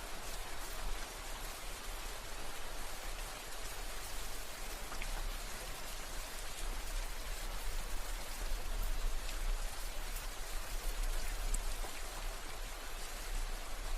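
Steady rain falling: an even hiss of rain with scattered faint drop ticks and a steady low rumble underneath.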